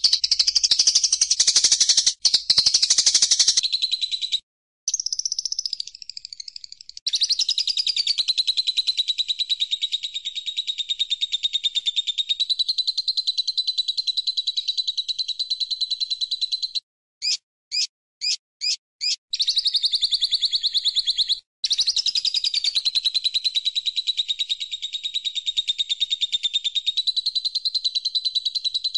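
A recorded bird call: a rapid, high-pitched trill held for long stretches, broken by short gaps and a run of five short chirps midway.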